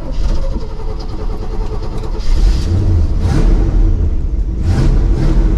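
Old tow truck's engine just started, running and revving, growing louder about two seconds in, heard from inside the cab.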